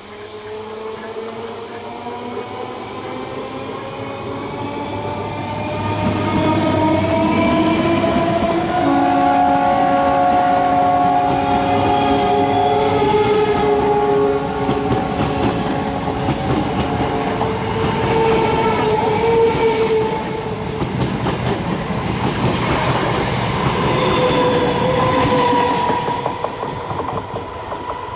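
Electric multiple unit (EMU) local trains running past close by, their wheels clattering over the rail joints under a steady rumble. A motor whine rises in pitch over the first several seconds, and from about nine seconds in a chord of steady tones, typical of the train's horn, is held for several seconds, with shorter tones sounding again later.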